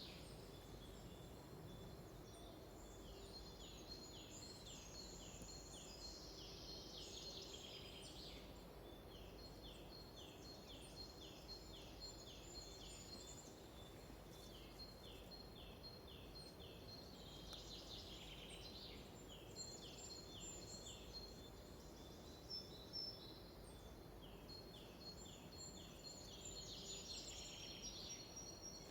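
Faint forest birdsong: one bird repeats short falling notes about twice a second in long runs, with thinner, higher songs from other birds over a steady low background hiss.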